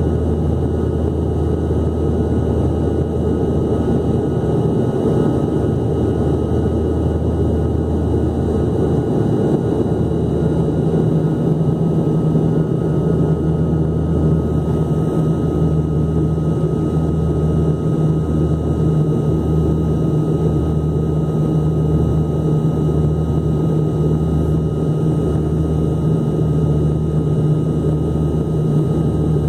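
Airliner engine noise inside the cabin during the approach to landing: a steady drone. About ten seconds in, a low hum joins it and throbs about once a second.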